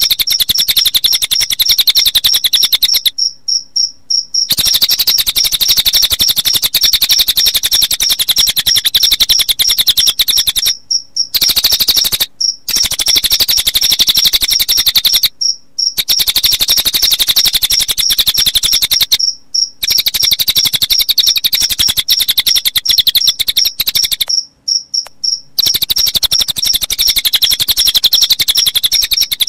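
Recorded cililin bird song layered with cricket chirping: a loud, rapid, very even high-pitched trill that runs in long stretches, broken by several brief pauses.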